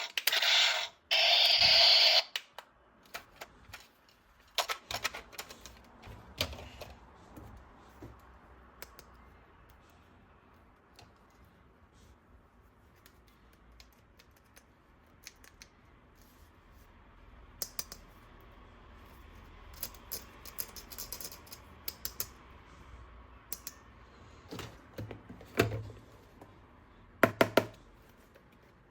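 Scattered light clicks and taps of plastic toys and packaging being handled, with a few louder clusters of clicks near the end. Background music plays for the first two seconds, then stops.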